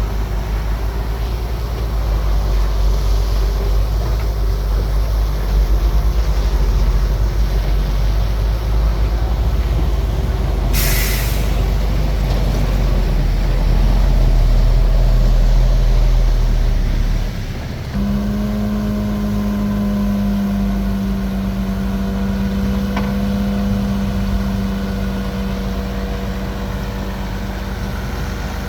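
Bulldozer's diesel engine running under load with a deep, heavy rumble; about 11 s in there is a short hiss of released air. Near 17 s the rumble drops away and the engine settles into a steadier, evenly pitched hum.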